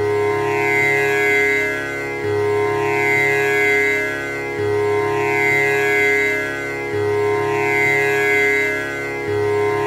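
Tanpura drone: its strings plucked in an unbroken cycle that repeats about every two and a quarter seconds, the overtones ringing on steadily between plucks.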